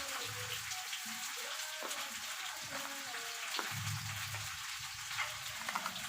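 Slate pencils being bitten and chewed: a dense, steady run of small crisp cracks and gritty crackling.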